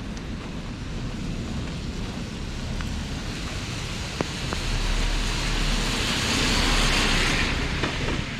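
Rain falling with a vehicle passing on the wet road: a tyre hiss with a low rumble that swells for several seconds and fades near the end. A couple of sharp taps come about four seconds in.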